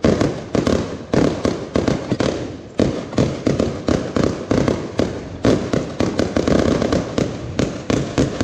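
Fireworks going off in a rapid, continuous barrage of sharp bangs, several a second.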